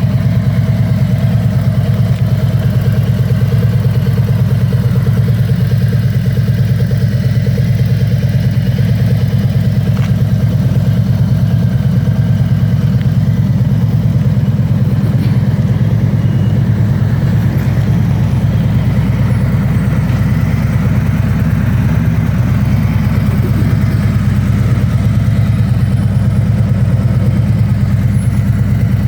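Harley-Davidson Freewheeler trike's 1745 cc V-twin idling steadily, with a deep, even pulsing exhaust note.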